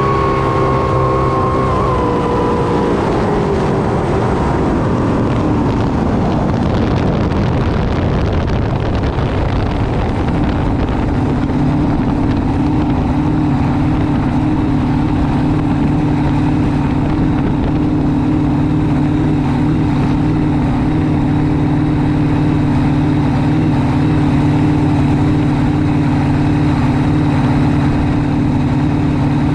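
Jet drag boat's race engine winding down, its pitch falling over the first eight or nine seconds, then settling into a steady idle for the rest.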